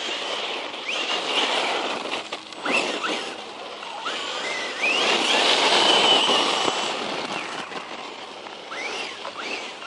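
Brushless electric motor of a 1/10-scale RC truck whining as it accelerates in repeated short bursts, each a rising whine, over tyre and drivetrain noise. About five seconds in it holds a longer, steady high whine at full throttle, the loudest stretch.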